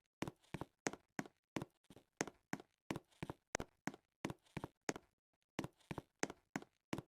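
Footsteps in a steady walking rhythm, about three sharp steps a second, with a short pause about five seconds in.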